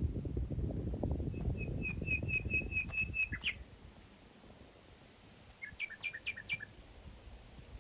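A songbird singing. First comes a quick run of about nine clear repeated whistled notes ending in a lower slurred note, then a few seconds later a short phrase of about five quick two-note units. A low rumble fills the first three seconds or so.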